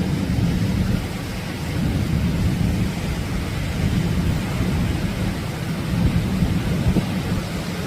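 Atlantic surf breaking and washing up the beach: a steady, deep rumble with hiss above it, swelling and easing every second or two.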